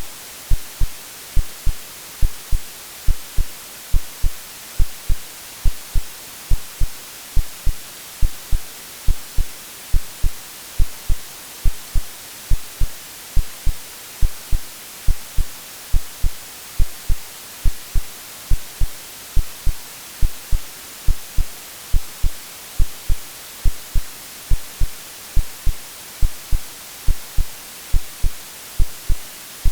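Synthesized heartbeat, a steady lub-dub of paired low thumps a little over once a second, over continuous white-noise hiss: a womb-like sleep sound for soothing a baby.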